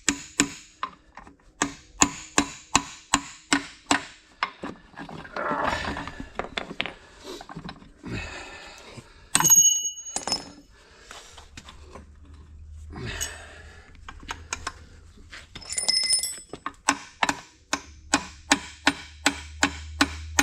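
Repeated sharp metal strikes, about three a second, in runs broken by a pause of handling and scraping, with a brief metallic ring about nine seconds in.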